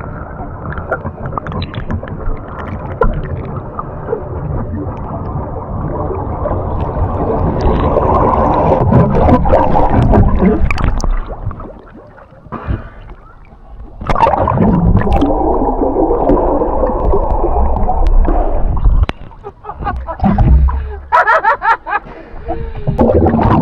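Scuba divers' exhaled air bubbling and rumbling from their regulators underwater, in long bursts with breaks about twelve seconds in and again near twenty seconds.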